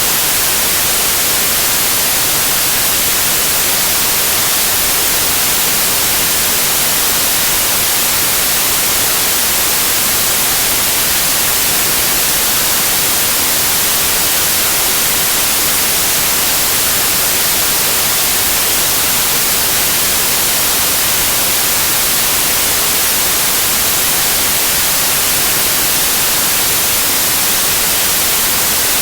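Steady white noise like TV static: an even, unchanging hiss, brightest in the high end.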